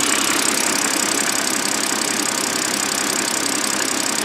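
BMW N52 inline-six engine idling, heard up close, with a steady rattle from the back of the engine where it meets the six-speed manual gearbox. The owner is 90% sure the rattle is a failing dual mass flywheel.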